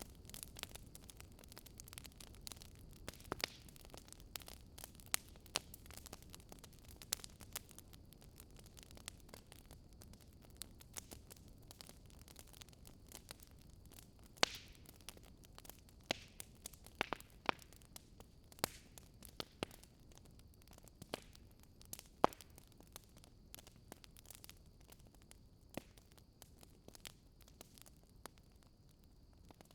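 Wood fire crackling in a fireplace: irregular sharp snaps and pops, a few louder than the rest, over a faint low hiss.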